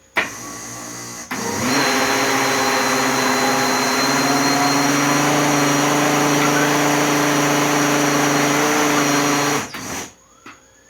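Countertop blender motor running with a batter of milk, eggs and flour: it starts at a lower level for about a second, then runs steadily and louder for about eight seconds before switching off abruptly.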